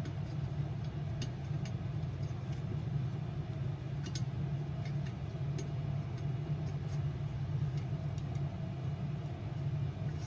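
Faint scattered metallic clicks of an Allen wrench working a bolt on a diesel heater, over a steady low hum.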